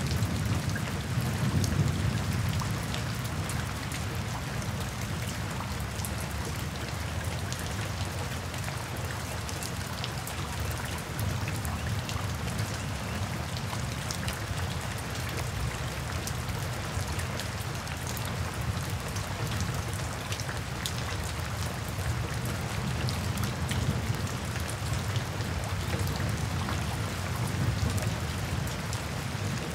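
Steady rain falling in a forest, with individual drops hitting close by. A low rumble swells near the start and again near the end.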